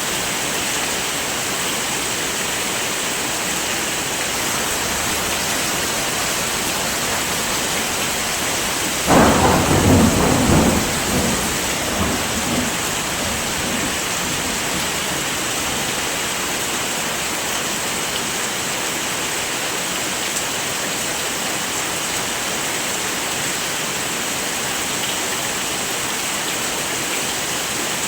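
Steady heavy rain. About nine seconds in, a sudden thunderclap rumbles and fades over about three seconds.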